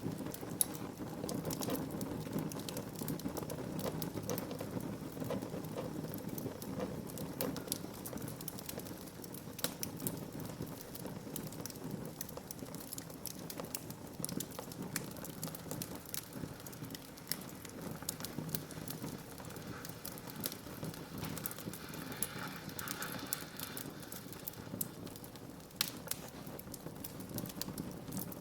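Wood fire burning in a fireplace, crackling steadily with frequent small sharp pops over a low, steady sound of burning.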